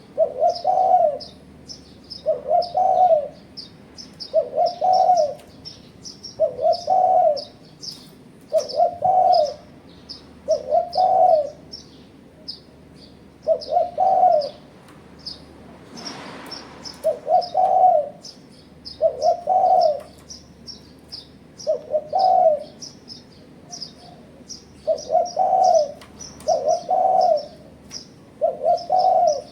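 Spotted dove (tekukur) cooing over and over, a short multi-note coo phrase about every two seconds, with small birds chirping high-pitched throughout. There is a brief rustle about halfway through.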